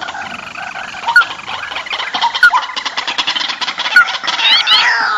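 Rice-field birds calling in a noisy, overlapping chorus, the kind of recording played as a lure for trapping: short upward-flicking notes repeating about every second and a half, a fast rattling chatter in the middle, and squealing calls that sweep up then slide down near the end.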